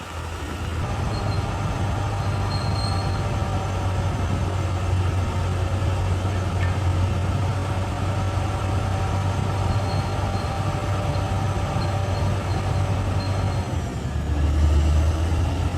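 Crawler bulldozer's diesel engine running steadily while its steel tracks squeal with a steady high whine. About fourteen seconds in the engine drone swells louder for a second or two as it takes load.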